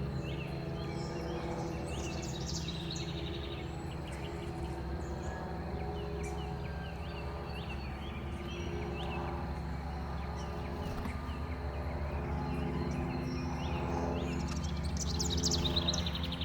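Backyard birds chirping in many short calls over a steady low hum, with a quick trill about fifteen seconds in.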